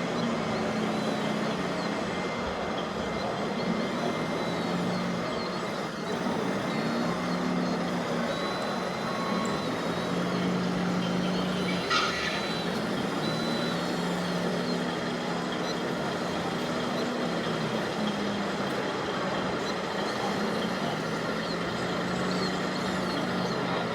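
Radio-controlled model trucks running, with a steady engine-like hum whose pitch steps up and down over an even background noise. A brief sharp sound comes about halfway through.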